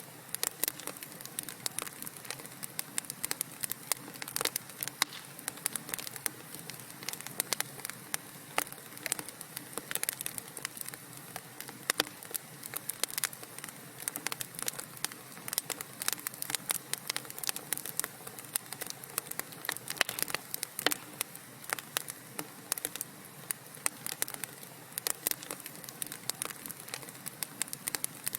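Burning wood crackling in a fireplace: a steady soft hiss with many small irregular pops and snaps.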